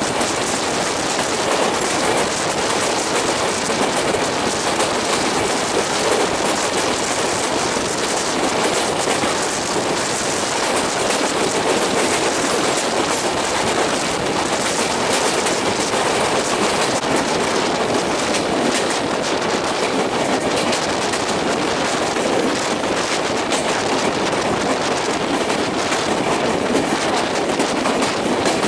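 Passenger train running at speed, heard from on board its LHB coach: a steady, loud wheel-and-rail noise with faint clicks over the track.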